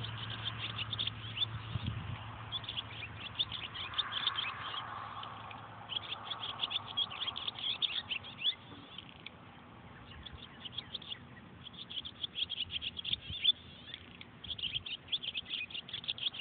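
Birds chirping rapidly in bouts of a few seconds each, with short pauses between them.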